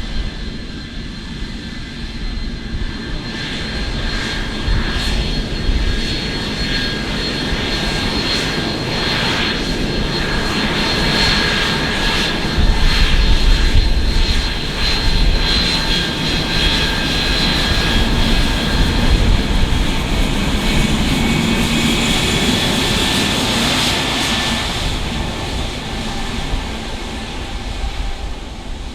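Jet airliner's engines passing: a steady high whine over a low rumble that builds, is loudest about halfway through, and fades near the end.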